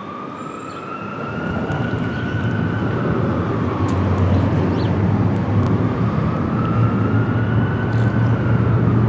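An emergency vehicle siren wailing, its pitch rising and falling slowly twice, over a low vehicle engine rumble that grows louder from about two seconds in.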